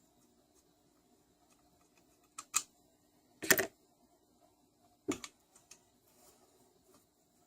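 A few short, sharp clicks and knocks as tools and engine parts are handled and set down: a pair about two and a half seconds in, the loudest about a second later, and two more around five seconds, with lighter ticks after.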